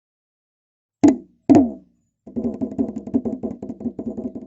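Tifa, the Papuan hand drum, struck twice hard, each beat ringing and dropping in pitch, then played in a fast, even roll of about eight strikes a second that slowly fades.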